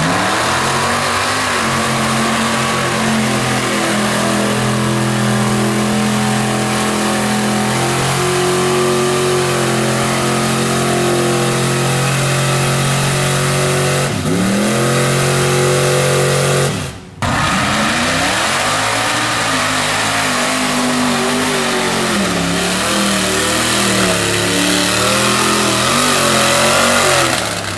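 Mud truck engine running at high revs through a mud bog, held nearly steady, then dipping and climbing again about 14 seconds in. It breaks off briefly about 17 seconds in, and another run follows with the revs rising and falling.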